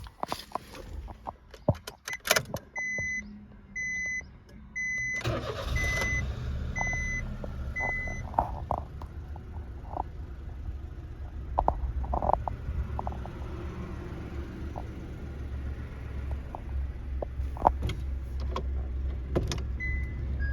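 A car's warning chime beeps evenly, about every 0.7 s, for several seconds. About five seconds in, a Honda Life's 660 cc engine starts and settles into a steady idle, with scattered clicks and a couple more beeps near the end.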